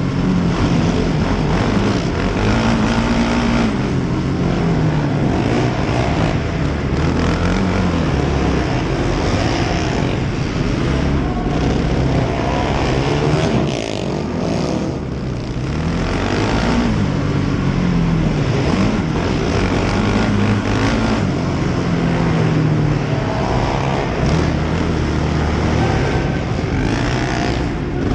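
Racing quad ATV engines revving up and dropping off again and again, the engine pitch climbing and falling in repeated sweeps.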